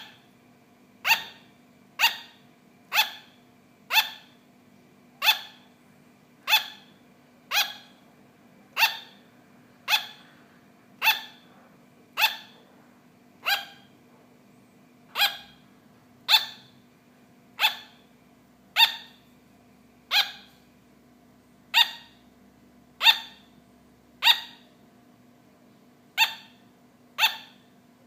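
A sugar glider barking: short, sharp yaps repeated about once a second in a steady, slightly uneven rhythm.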